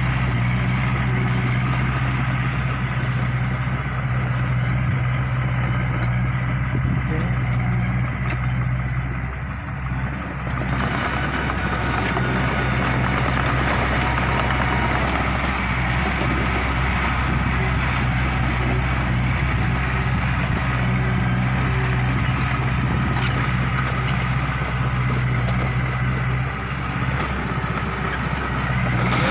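Large diesel engine idling steadily, with a brief dip in level about a third of the way in.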